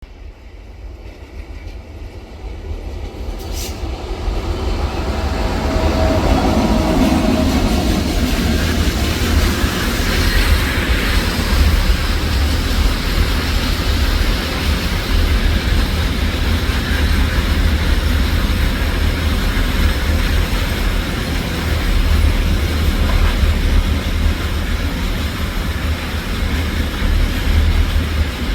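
Goods train passing. The rumble of the locomotive and freight wagons grows louder over the first several seconds as it approaches, then runs on steadily.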